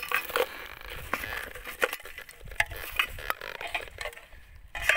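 Pieces of scrap metal, aluminium among them, clinking and rattling as they are picked up and handled, with irregular sharp knocks and clicks.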